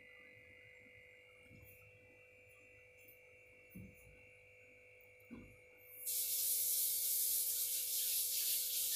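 Onions and carrots frying in oil in a kadhai: a faint steady hum with a couple of soft knocks of a wooden spatula against the pan. About six seconds in, a loud steady sizzle starts abruptly.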